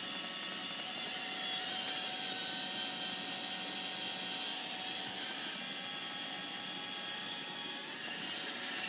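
Roomba robot vacuum running: a steady whir with a high, even whine.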